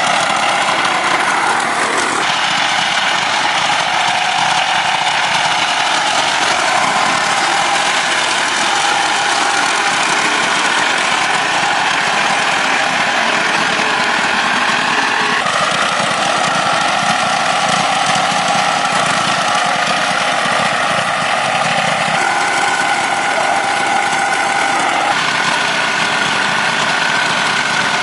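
A motor or engine running steadily, with a whine that shifts pitch in steps a few times.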